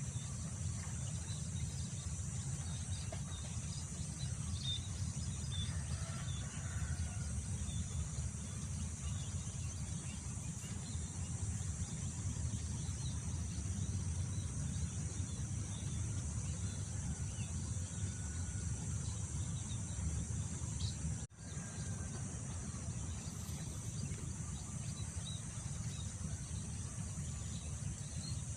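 Wind buffeting the microphone with a steady low rumble, over a constant high drone of crickets and scattered small bird chirps. A brief sharp dip about three quarters of the way through.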